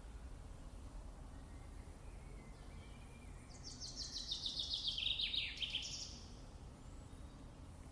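A songbird sings one fast trilled phrase of about two and a half seconds, falling in pitch as it goes, over a faint steady background.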